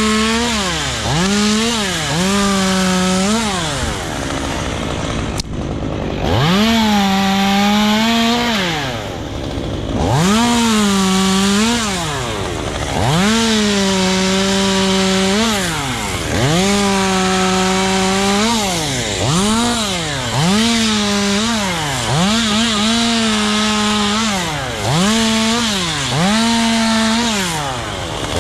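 Chainsaw revved to full throttle and let back down to idle over a dozen times, each burst lasting one to two seconds, as it cuts up wood.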